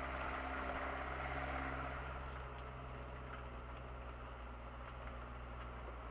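Kia Sportage engine running steadily at low speed on a rough dirt track, heard from inside the cabin; a little louder for the first two seconds, then easing off, with a few faint clicks.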